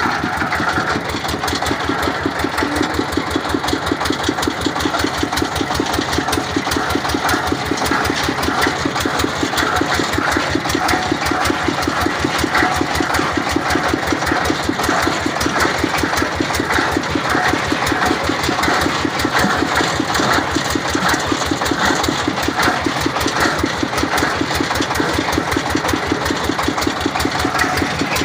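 Engine of a water well boring rig running steadily under drilling, with an even, regular firing beat and no change in speed.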